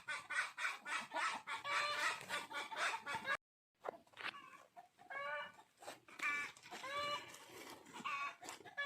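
Hen clucking rapidly and then giving longer, drawn-out squawks, the calls of a bird disturbed at its nest. The sound drops out completely for a moment about a third of the way in.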